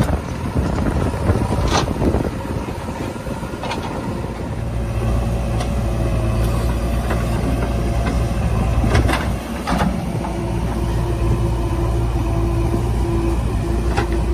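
A heavy vehicle's diesel engine running steadily, its low rumble growing louder about four and a half seconds in, with a few short sharp knocks over it.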